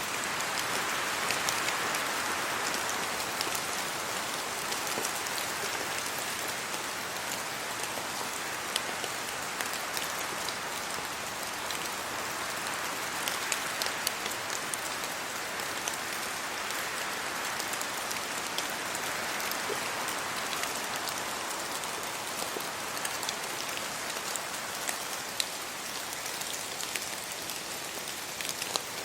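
Steady rain falling on trees and leaves, an even hiss with many separate drops ticking through it and the level swelling gently now and then.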